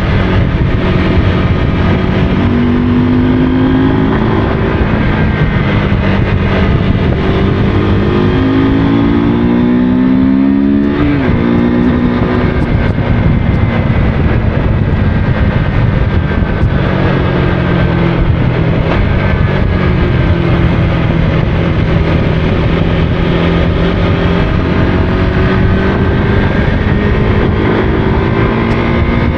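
Motorcycle engine running while riding, its pitch climbing as it accelerates and falling back between rises, with a sharp drop about eleven seconds in and another climb near the end.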